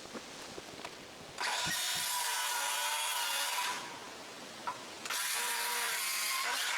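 Power saw cutting wooden roof boards to length: two cuts, the first about a second in lasting a couple of seconds, the second starting about five seconds in, with the motor's pitch shifting under load. Small knocks from handling the boards in between.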